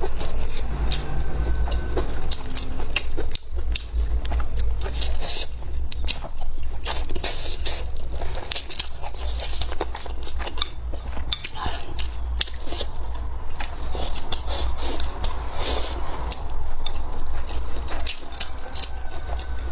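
Close-miked chewing and biting of blistered green chili peppers with rice, in many short crackles, while wooden chopsticks scrape and click against a ceramic bowl. A steady low hum runs underneath.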